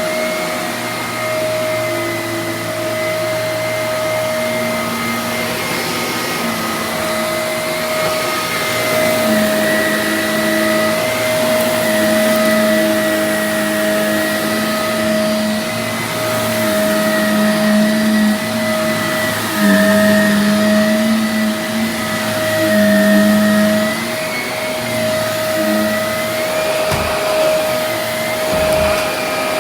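Vacuum cleaner running continuously with a steady high motor whine. Underneath, a lower hum shifts in pitch and strength every second or two as the vacuum is worked over the floor.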